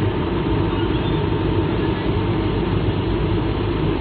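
Steady cabin noise inside an Airbus A220-300 in flight: the even sound of its Pratt & Whitney PW1500G geared turbofan engines and the airflow over the fuselage, heaviest in the low end.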